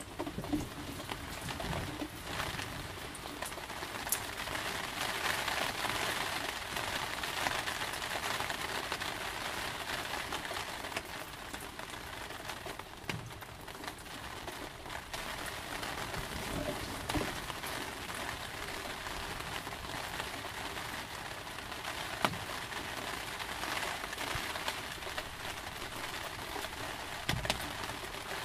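Steady rain falling, an even hiss of drops with a few sharper single drips standing out now and then.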